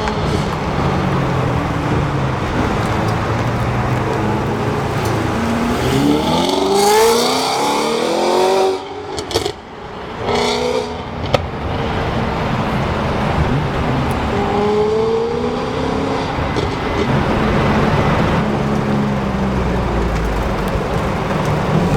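Sports car engines running loud with traffic noise, one car revving up in a sharp rising sweep about seven seconds in and another accelerating with a rising pitch a little past halfway.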